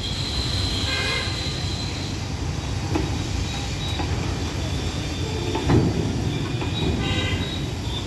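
Train rolling on the rails with a steady low rumble. A high thin tone sounds over it for the first couple of seconds, short high squeals come about a second in and again about seven seconds in, and a single louder knock lands a little before six seconds.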